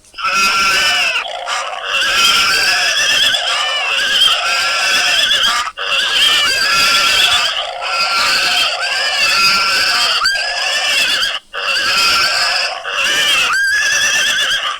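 Animal calls: a run of loud, high-pitched cries that rise and fall in pitch, with brief gaps about six and eleven and a half seconds in.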